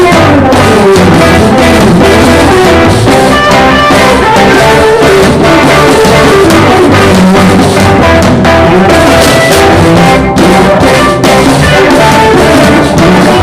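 Live band playing with drum kit and guitar, captured as a loud, overdriven recording that stays near full level throughout.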